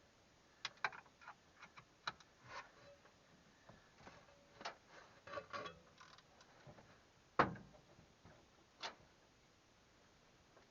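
Scattered light clicks and taps of hand tools and parts being handled during work on a truck engine, with a sharper knock about seven seconds in and another about a second and a half later.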